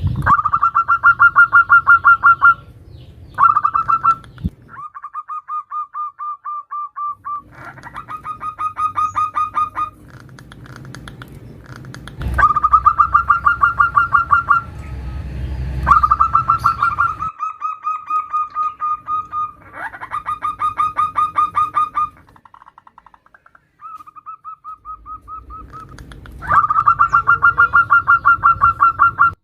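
Female zebra dove (perkutut) calling to a male: rapid trilled bursts of notes, each one to three seconds long, repeated with short pauses between.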